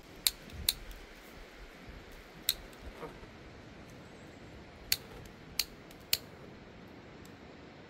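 Six sharp clicks at uneven intervals, each much like the others, while a fire is being lit.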